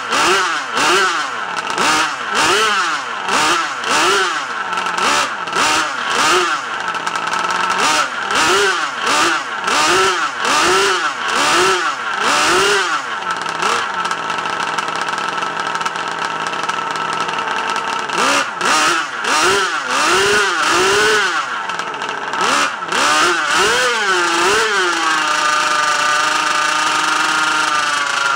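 RCMK 50.8cc twin-cylinder two-stroke engine running through an unsilenced Victory-RC exhaust. It is blipped on the throttle in a quick rhythm, about one and a half revs a second, drops to idle for a few seconds in the middle, is blipped again, then holds a steady speed before easing off near the end.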